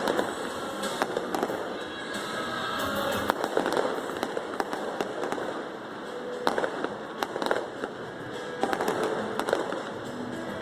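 Fireworks display: many sharp bangs and crackles going off irregularly in quick succession, with music playing underneath.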